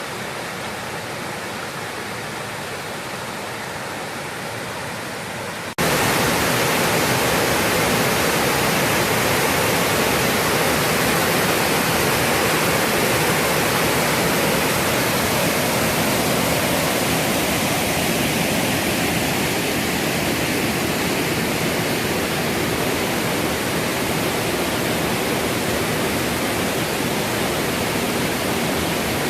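Honey Run Waterfall rushing in a steady, loud roar of falling water, running high after heavy rain. It jumps abruptly louder about six seconds in and then holds steady.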